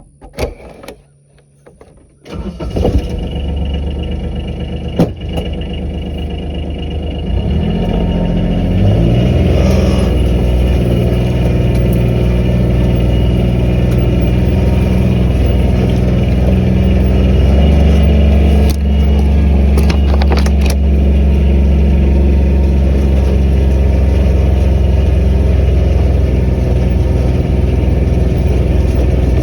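Vehicle engine starting about two seconds in after a few clicks, then running as it drives off, its pitch and level stepping up twice as it gathers speed.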